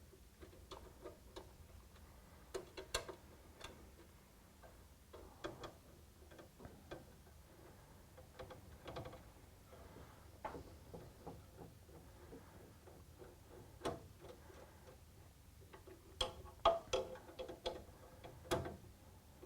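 Faint, irregular clicks and light metallic taps of hand work on the furnace as a replacement flame rollout switch is screwed down to its mounting plate, with a busier run of louder clicks near the end.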